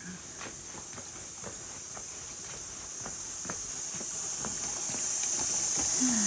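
Footsteps, about two a second, under a steady high hiss that grows louder toward the end.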